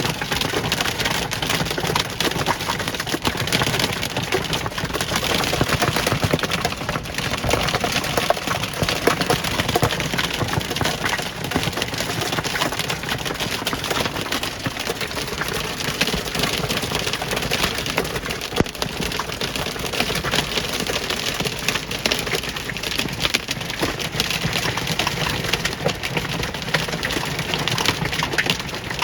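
Hailstorm: hailstones pelting down in a dense, continuous clatter of sharp individual hits mixed with rain.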